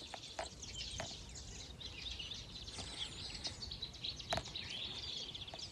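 Several small birds singing and chirping in a continuous outdoor chorus over a low background rumble, with a few sharp clicks, the loudest about four seconds in.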